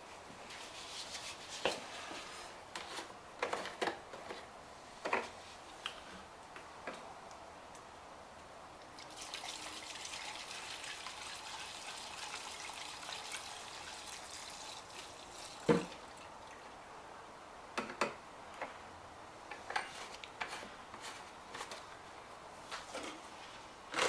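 Gasoline pouring from a can into a lawn mower's fuel tank, a steady trickling for about six seconds in the middle. Before and after it come scattered clicks and knocks of the can and filler cap being handled, the loudest a sharp knock just after the pouring stops.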